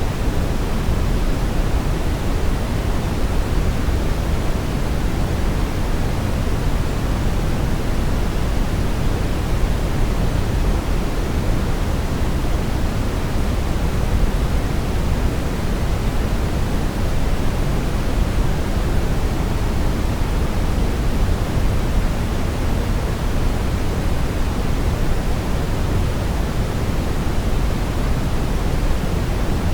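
Steady brown noise: an even, unchanging rushing hiss, strongest in the deep bass and falling away toward the highs.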